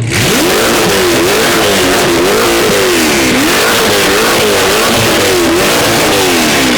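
Corvette V8 revved again and again through a loud aftermarket exhaust, its pitch rising and falling with each blip of the throttle.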